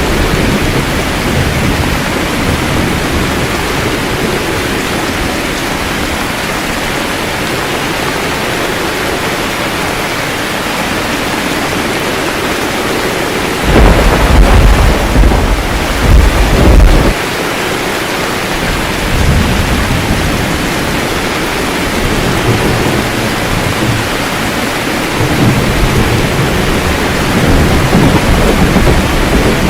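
Steady heavy rain, with a loud roll of thunder rumbling from about halfway through for some three seconds, and lighter low rumbles toward the end.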